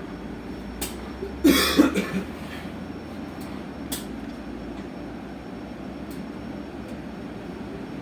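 Electric bus riding along, heard inside the cabin: a steady hum and tyre rumble, with a loud short burst of noise about a second and a half in and a few sharp clicks.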